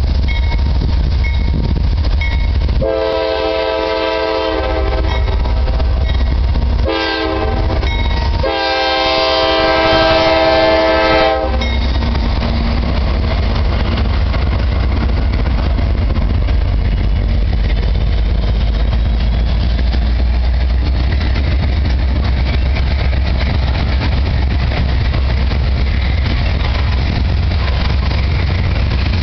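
CSX diesel locomotive sounding its horn in three blasts, long, short, then long, as it reaches a grade crossing, the warning signal for the crossing. Then the locomotive and the train of coal hopper cars roll past with a steady heavy rumble and wheel clatter.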